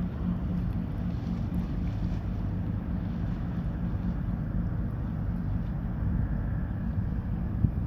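Ferry Inori's engines running with a steady low hum as it comes into port, with wind rushing on the microphone and a short knock near the end.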